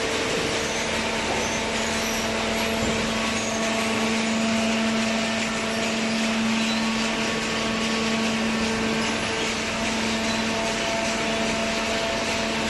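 Double-cylinder vertical carton baler's hydraulic power unit running, a steady machine hum with a few constant tones over a broad hiss.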